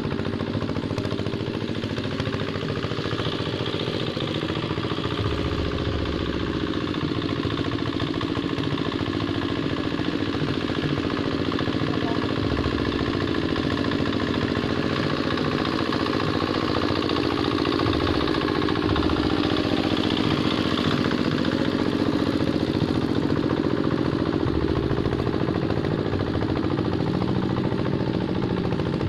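Two-wheel hand tractor's single-cylinder diesel engine running steadily while ploughing a wet rice paddy, its pitch wavering a little as the load changes.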